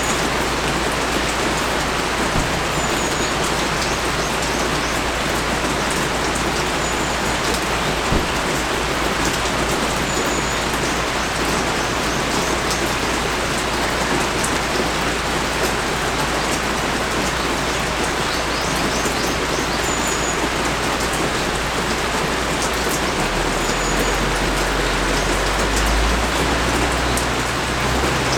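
Steady rain pouring down and pattering on surfaces in an even hiss. A few faint high chirps come through now and then, and a low rumble swells in near the end.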